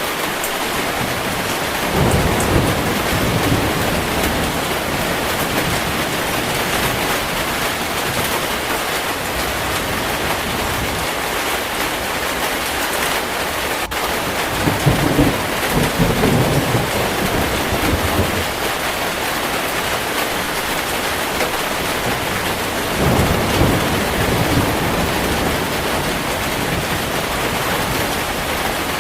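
Heavy rain falling steadily, with thunder rumbling in three swells: about two seconds in, in the middle, and near the end.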